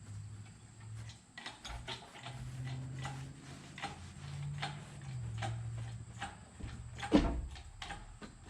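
Hand tools and metal engine parts clicking and tapping irregularly while the cylinder head is worked off the Opel engine, with one heavy metallic clunk about seven seconds in.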